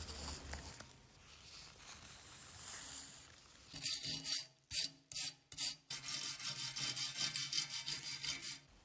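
Abrasive rubbing on a workpiece: a few separate scraping strokes starting about four seconds in, then a quick, steady run of back-and-forth strokes that stops suddenly near the end.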